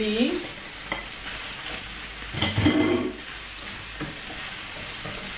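Sea cucumber and vegetables sizzling in a frying pan as they are stir-fried with a spatula, just after chilli goes in. There is a louder spell of stirring and clatter about two and a half seconds in.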